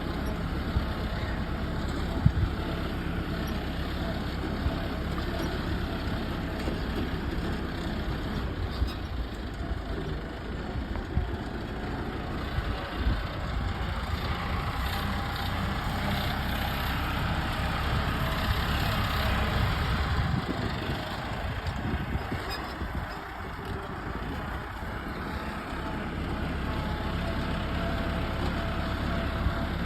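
Tractor engine running steadily, with a few sharp knocks.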